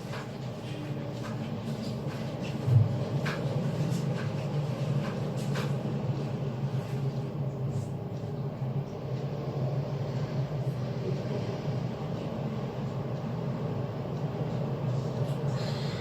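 Steady rush of water running in a sink while something is washed, with scattered light knocks and clatter of handling and a louder thump about three seconds in.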